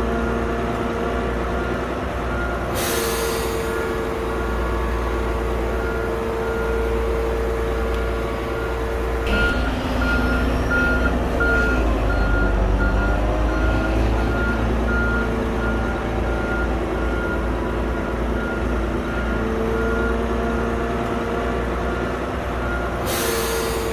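Shantui bulldozer's diesel engine running under load, with its reversing alarm beeping in a steady series. The engine pitch dips briefly about halfway through, and there are short hissing bursts near the start and near the end.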